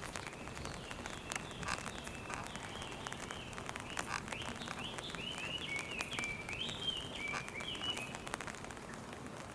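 A bird chirping a rapid series of short, high, sliding notes, busiest in the second half, over raindrops tapping sharply and irregularly.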